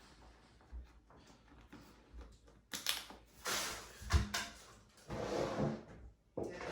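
Handling noises: scattered knocks and clicks with several short bursts of rustling, and one low thump about four seconds in.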